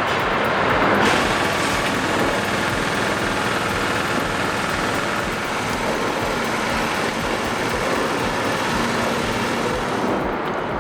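A heavy truck's engine running steadily under a constant hiss-like noise.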